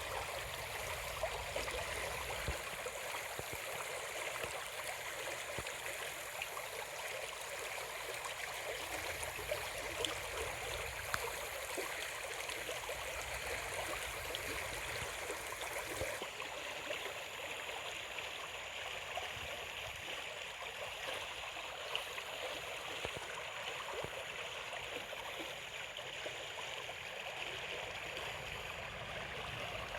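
Steady rushing noise like running water, with a few faint clicks.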